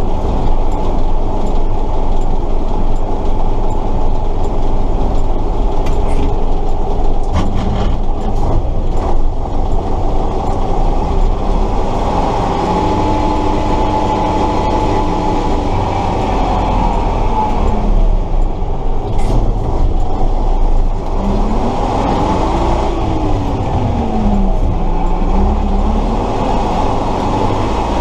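Tatra 138 truck's air-cooled V8 diesel running under way, heard from inside the cab, with a rattling drivetrain. A whining tone rises and falls twice, about halfway through and again near the end, and a few sharp knocks come in the first third.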